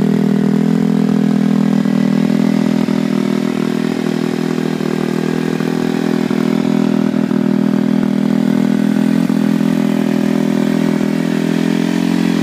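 2011 Kawasaki KX250F's fuel-injected 250cc single-cylinder four-stroke engine idling steadily through a DR.D (Dubach Racing Development) full stainless-steel exhaust system.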